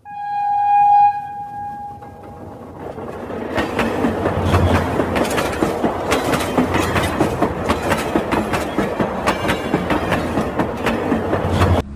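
A train horn sounds once, a steady single note lasting about a second and a half, then a train runs with a rapid rhythmic clickety-clack that builds up over a few seconds and carries on steadily.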